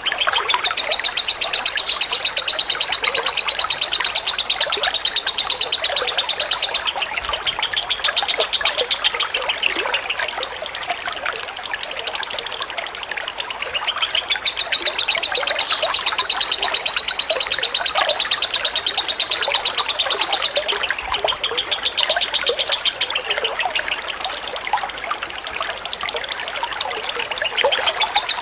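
Lovebird singing a long, rapid chattering trill, the 'ngekek' song used to train other lovebirds, over a background of trickling water. The chatter runs on without a break, easing slightly twice.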